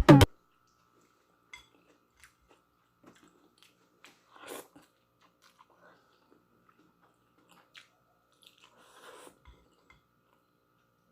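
Background dance music cuts off just after the start, leaving faint close-up chewing and mouth sounds of a person eating noodles. These are scattered soft clicks with two brief, slightly louder bits, about four and a half and nine seconds in.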